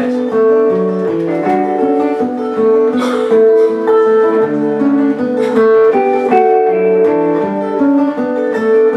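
Acoustic guitar instrumental introduction, plucked and strummed chords with notes changing about every half second.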